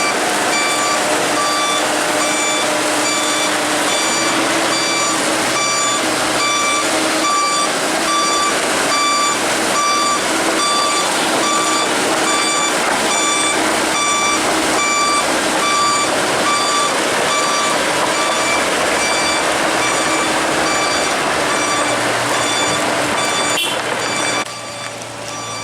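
Excavator's travel alarm beeping in an even repeating pattern, about one and a half beeps a second, over the machine's running engine. The overall noise drops near the end.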